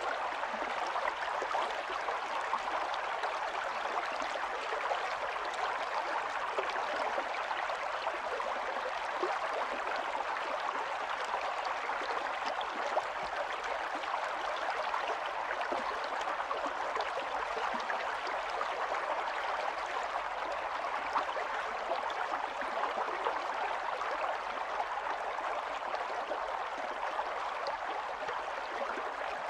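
Running stream: water flowing and gurgling over stones in a steady, even rush.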